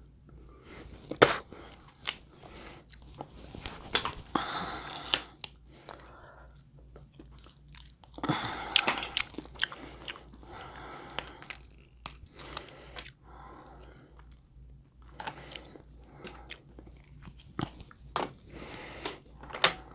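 Close-miked eating of a seafood boil: crab-leg shells cracking with sharp snaps at irregular moments, between stretches of wet chewing and biting. A faint low hum runs underneath.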